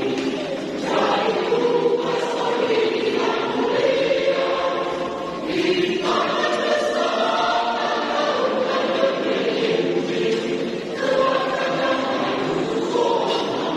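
A church choir singing together in several voices, in phrases with short breaths between them.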